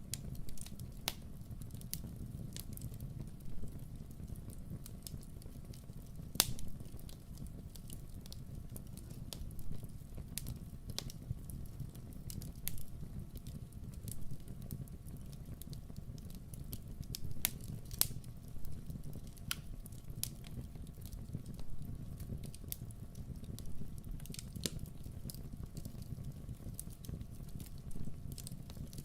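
Campfire burning: a steady low rush of the flames with frequent sharp crackles and pops from the wood, a few louder snaps scattered through.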